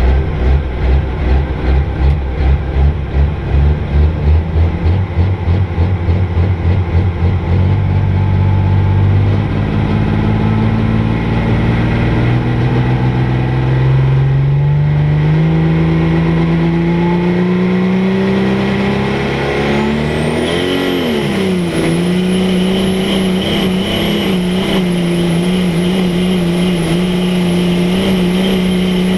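Turbocharged Cummins diesel in a Dodge pulling truck under load: the engine first pulses at about two beats a second, then runs steadily with its pitch climbing as the revs build. About two-thirds of the way through it dips briefly, then holds at high revs with a high turbo whistle over it.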